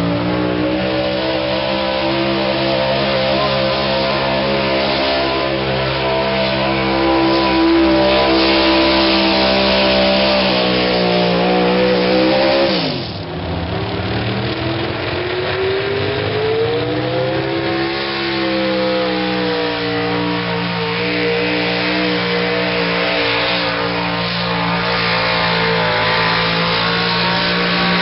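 Pulling truck's engine running hard at high revs under load; about halfway through the pitch drops sharply and the sound dips, then the revs climb back up and hold steady again.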